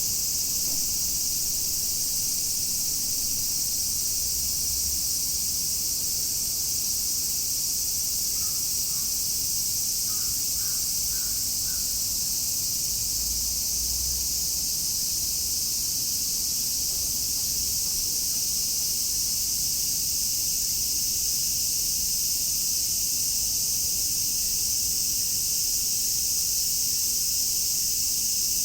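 Cicada chorus: a dense, steady, high-pitched shrill of many cicadas singing at once. About a third of the way in, a distant bird gives a few faint short calls, two and then four.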